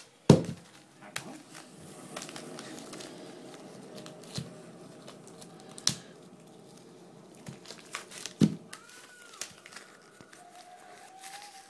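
Wrapping paper crinkling and tearing as a dog rips open a present, with scattered knocks and a loud thump just after the start.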